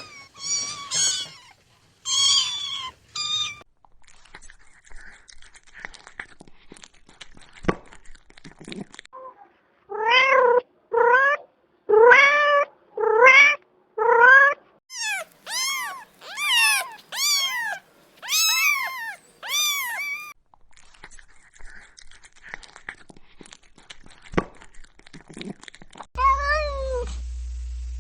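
Cats meowing in a series of short clips: a few high-pitched meows, then a run of five lower meows about a second apart, then a quick run of high, arching meows. A steady low hum comes in near the end under one more meow.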